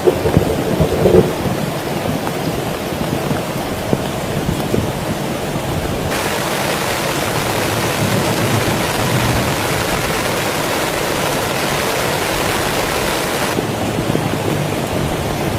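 Heavy rain falling steadily, a dense patter with a few louder low knocks in the first second. A brighter hiss comes in suddenly about six seconds in and stops just as suddenly about two seconds before the end.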